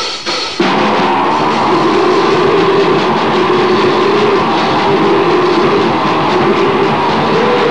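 Harsh noise/grindcore recording: a dense, steady wall of distorted noise cuts in abruptly under a second in, right after a brief spoken voice sample ends.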